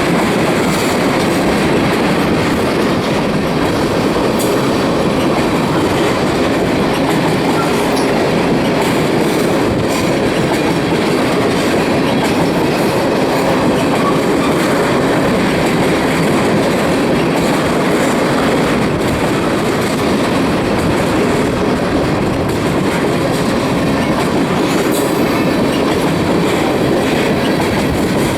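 Freight train cars rolling past at speed: a steady rumble and rattle of wheels on the rails, with clickety-clack from the wheels.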